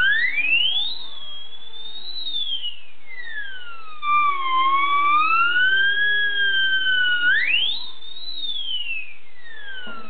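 Acme siren whistle being blown, its wail gliding up and down in pitch. It shoots up to a high shriek in the first second, slides down over a few seconds, climbs slowly, then rises sharply again a little past halfway before falling back.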